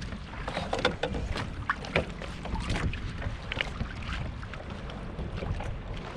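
Water sloshing and splashing against a kayak hull, with wind rumbling on the microphone. Irregular short splashes and knocks run through it, the loudest about one and two seconds in.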